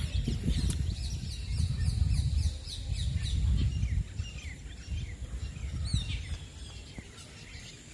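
Birds chirping in a steady run of short, falling calls, over a low rumble that fades out about six seconds in.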